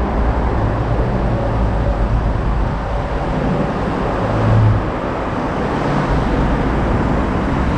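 Steady running noise of a motor vehicle with a low rumble, swelling briefly about four and a half seconds in.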